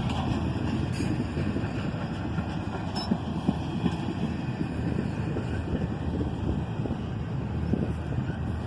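Double-stack intermodal freight train rolling slowly past, a steady low rumble of cars and wheels on the rails, with a couple of faint clicks.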